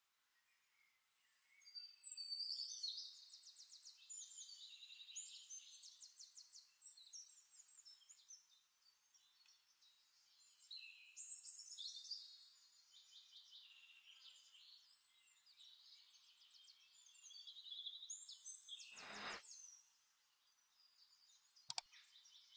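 Faint birdsong: small birds chirping and trilling in phrases separated by short pauses.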